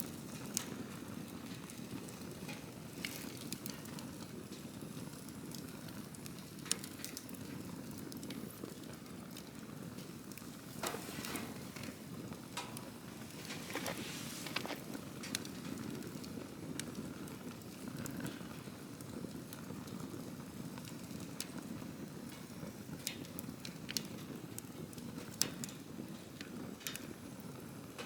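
Campfire burning: a steady low rush of flames with scattered sharp pops and crackles, which come thicker about halfway through.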